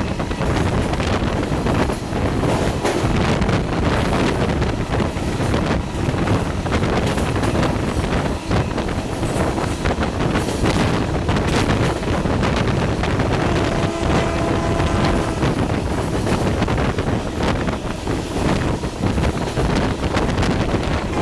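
Moving passenger train heard from aboard: a steady rumble with rail clatter, and wind buffeting the microphone. A little past the middle, a faint held tone with overtones sounds for about two seconds.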